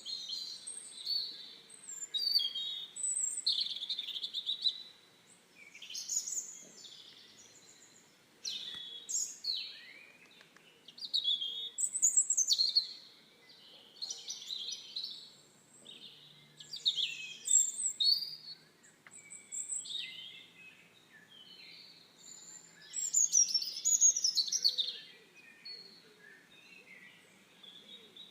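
Birds singing: high chirping, warbling phrases that come in bursts every second or two.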